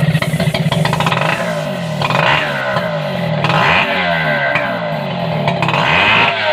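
Chainsaw engine running and being revved up and down over and over, rising and falling about every two seconds.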